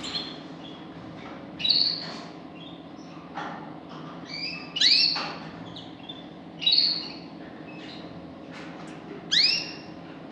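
A caged pet finch calling: short, sharp calls with a quick bending pitch, about five of them roughly two seconds apart, over a steady low hum.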